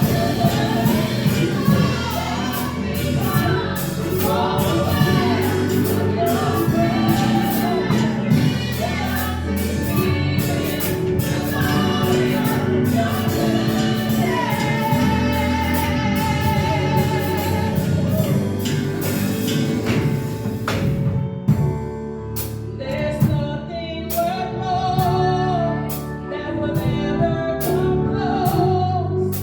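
Church worship band and congregation-style group singing a gospel praise song, with drums and band accompaniment. About two-thirds of the way through, the drums drop away and the music thins out and quietens.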